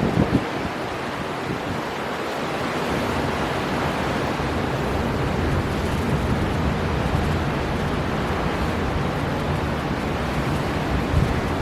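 Storm wind blowing hard over surf at the sea: a dense, steady rush of wind and waves, with gusts buffeting the microphone around the start and again near the end.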